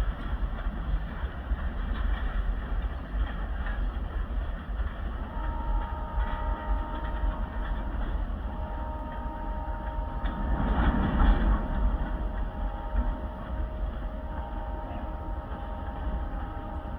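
Freight train hauled by EMD SD40-2 diesel locomotives running with a steady low rumble. From about a third of the way in, the locomotive horn sounds a chord in several long blasts, as for a grade crossing.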